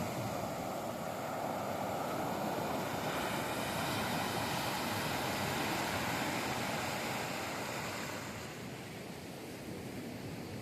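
Sea surf breaking on a beach: a wave swells to its loudest around the middle and eases off near the end.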